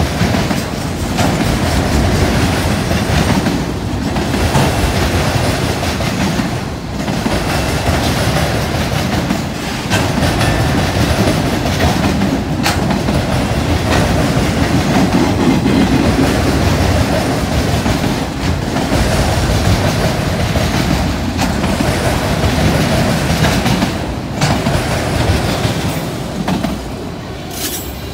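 Long CSX mixed freight train's cars rolling over a railroad diamond crossing, wheels slamming the crossing with a loud, steady clanking clatter that eases near the end.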